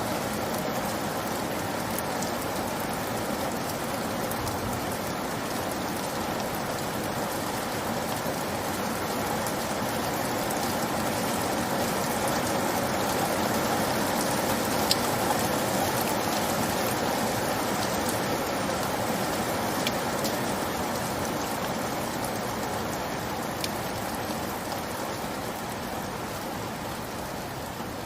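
Steady rainfall, a dense even hiss of drops on a surface with a few distinct drips, swelling slightly in intensity around the middle.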